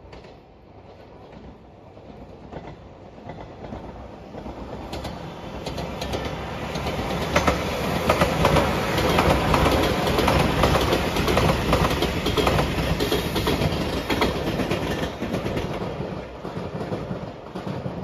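JR Shikoku 8000 series electric limited express train passing: the sound builds as it approaches, is loudest in the middle with a run of wheel clicks over the rail joints, then fades as the train moves away.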